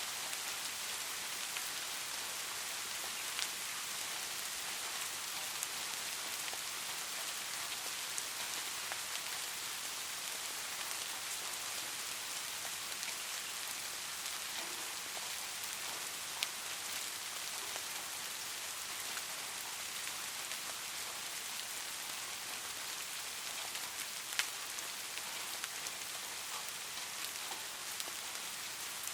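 Light rain falling steadily as an even hiss, with scattered single drops ticking sharply now and then.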